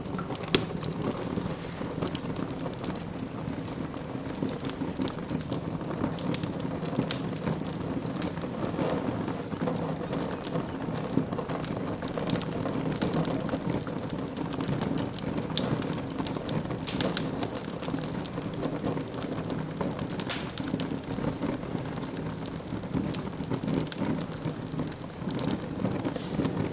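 Wood fire burning in a fireplace: a steady low rush of flames with irregular crackles and sharp pops throughout.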